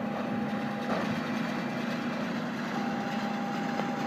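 Case IH tractor engine running steadily while it pulls a John Deere 566 baler at work, with a thin steady whine over the drone.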